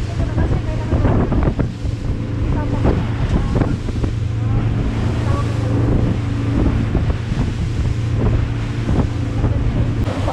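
Jet ski engine running steadily, a low drone, with wind buffeting the microphone and water splashing.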